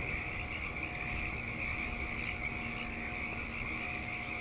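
Frogs calling in a steady, dense chorus over a low rumble.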